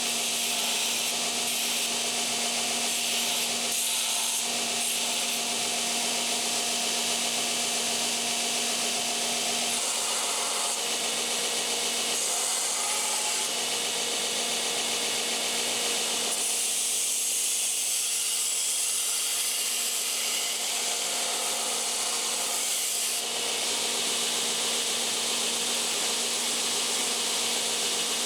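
Belt grinder running a coarse belt against the sides of a steel chef knife blade, hogging off metal. A steady motor hum lies under a loud hissing grind whose tone shifts a few times as the blade is moved on the belt.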